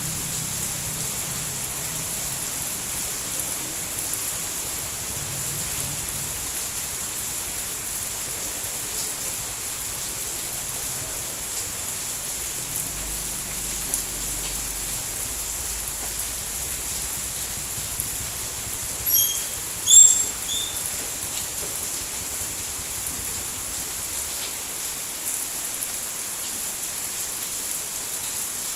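Steady, even rain hiss. About two-thirds of the way through come a few short high chirps.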